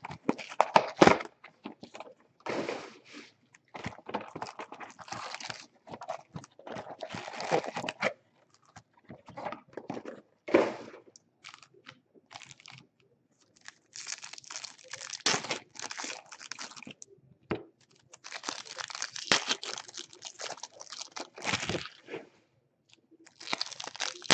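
Trading card pack wrappers being torn open and crinkled by hand, in irregular bursts of rustling and crackling with short pauses between.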